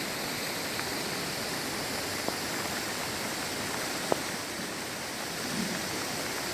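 Steady rush of a river flowing through a rocky gorge, with two small sharp clicks about two and four seconds in.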